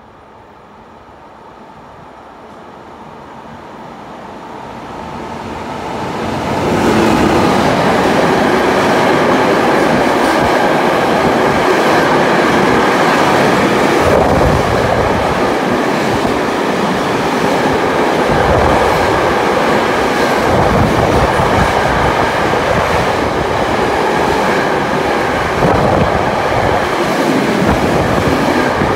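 Electric-hauled freight train of double-deck car-transporter wagons approaching and passing close by. It builds from faint to loud over about seven seconds, then holds a steady loud rolling noise of wheels on rail with occasional knocks as the wagons go by.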